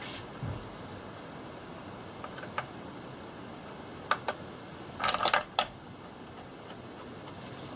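A few sharp clicks from hand tools during engine reassembly: single clicks around two and a half and four seconds in, then a quick cluster of four or five about five seconds in, over a steady hiss.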